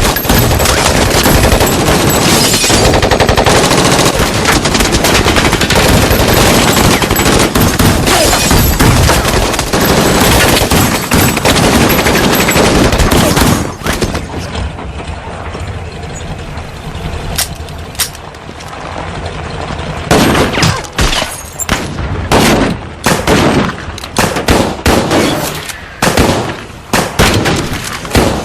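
Heavy sustained gunfire from several guns, shots packed together in an unbroken volley for about thirteen seconds, then a lull and a string of separate single shots near the end.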